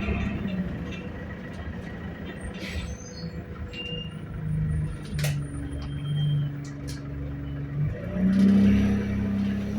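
ADL Enviro200 single-deck bus engine heard from inside the passenger cabin, running with a low hum and a faint steady whine over it. The engine note steps in pitch and grows louder about 8 seconds in as the bus pulls away, with scattered rattles and clicks from the body.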